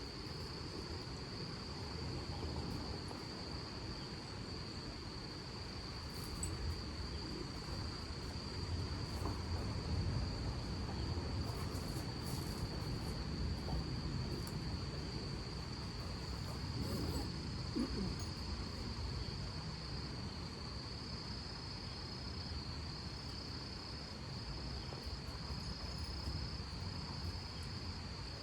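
A cricket trilling steadily in one high, unbroken note, which breaks into short pulses near the end, over a low, uneven rumble.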